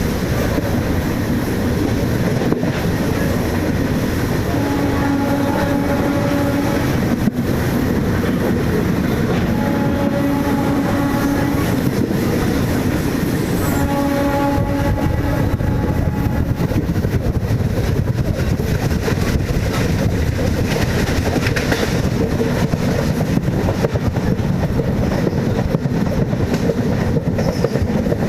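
MEMU electric train running with steady rumble and rail clatter. Its horn sounds three times in the first half, each blast one to two seconds long.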